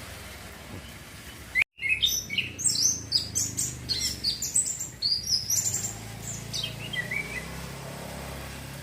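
Young male orange-headed thrush singing a fast, varied run of short high notes that jump and slide in pitch. The song begins about two seconds in and tails off with a few lower notes near the end.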